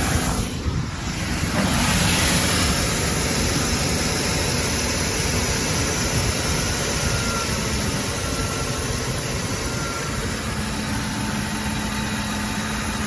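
Ford F-150's 5.4-litre V8 idling steadily after being started on fresh oil at the end of an oil change, with a short dip in level about a second in.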